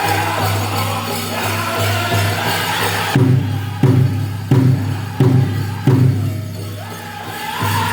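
Powwow drum group singing over a steady beat on the big drum, with dancers' bells jingling. About three seconds in the singing stops and the drum strikes five loud hard beats, about one and a half a second, before the singing comes back in near the end.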